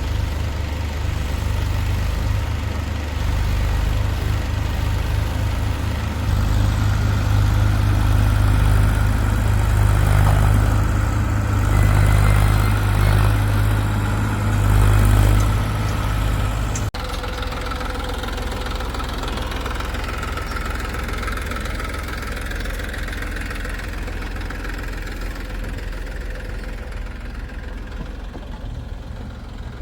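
Diesel engine of heavy earthmoving machinery running, working harder and louder for a stretch in the first half, then changing abruptly about halfway through to a steadier, slightly quieter hum.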